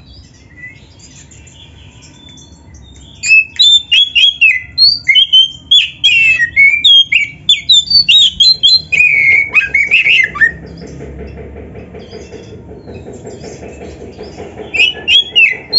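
Oriental magpie-robin (kacer) song: a fast run of sharp, sliding whistled and chirping notes from about three seconds in until about ten seconds, starting again near the end. A fainter low hum fills the pauses.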